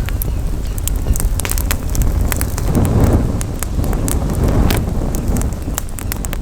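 Wood campfire crackling, with frequent sharp irregular pops and snaps, over a steady low rumble of wind on the microphone.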